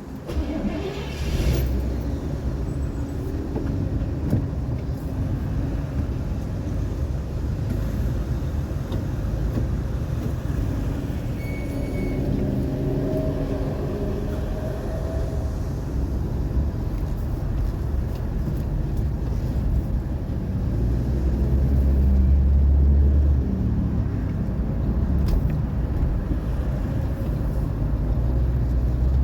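1981 Cadillac Seville running and being driven: a steady low engine and road rumble. It comes in about a second in and grows louder a little past twenty seconds in.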